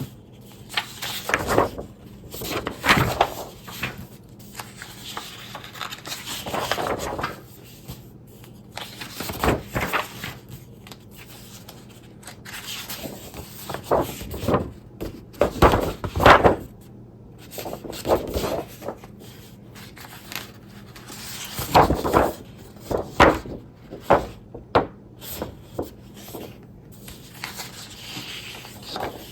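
Sheets of 12x12 scrapbook paper being flipped through and shuffled by hand: irregular rustles and swishes, with several louder flaps and slides as pages are turned over.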